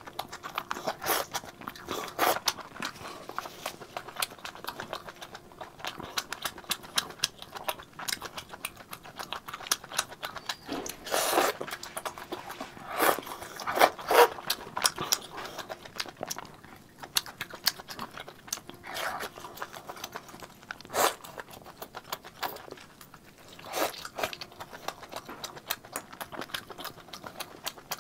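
Close-miked chewing of spicy squid: a steady patter of small wet mouth clicks, broken by several louder, longer bursts of eating sound.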